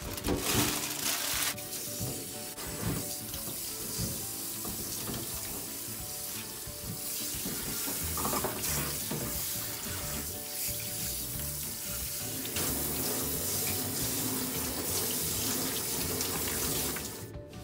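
Kitchen tap running into a stainless steel sink, water splashing as raw chicken pieces and then vegetables are rinsed by hand in a plastic colander. The rush of water stops near the end.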